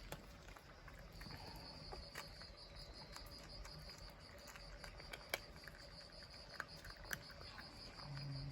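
Faint insect trilling, a steady high pulsing tone that starts about a second in, like a cricket, with a few soft sharp ticks over it.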